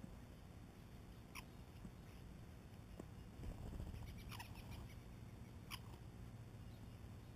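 Faint bird calls from backyard songbirds: three short notes that slide down in pitch, about a second and a half in and twice more after about four seconds, over a low steady outdoor hum.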